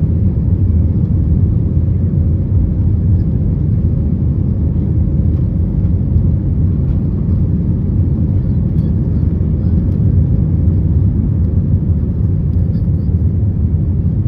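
Steady low rumble of engine and airflow noise heard inside the cabin of an Airbus A320 airliner, with a few faint rattling ticks.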